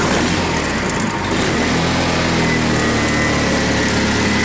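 Honda H4514 lawn tractor's liquid-cooled twin-cylinder engine running steadily while still cold, its thermostat not yet open, with a faint high whine alongside.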